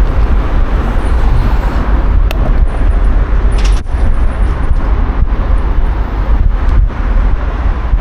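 Steady rumbling road and traffic noise heard while cycling through city streets, picked up by an action camera's microphone, with a couple of brief sharp clicks in the middle.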